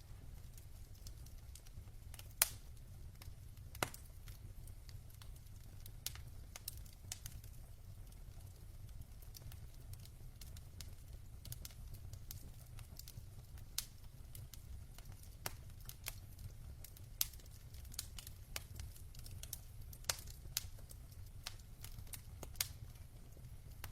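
Burning logs in a fireplace crackling: scattered sharp pops and snaps at irregular intervals, the two loudest about two and four seconds in, over a steady low rumble.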